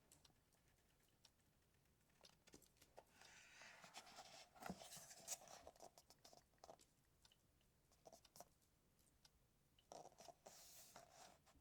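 Faint rustling of paper book pages being handled and turned, with scattered soft clicks and taps; two longer rustles come about a third of the way in and again near the end.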